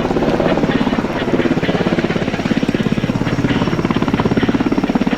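UH-60J rescue helicopter's rotor beating in a rapid, steady chop, about fifteen to twenty beats a second.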